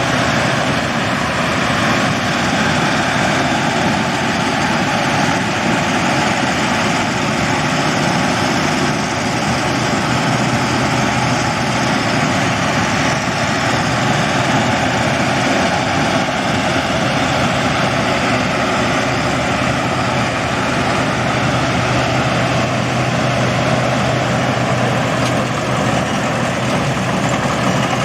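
Combine harvester running steadily at working speed, a continuous engine drone with a low hum under the noise of its machinery.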